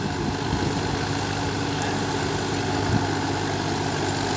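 Sonalika RX 42 tractor's diesel engine running steadily, with a brief knock about three seconds in.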